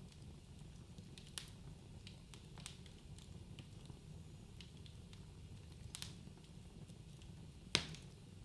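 Wood fire crackling in a fireplace: a low steady rumble of the flames with scattered sharp pops of burning logs, the loudest one near the end.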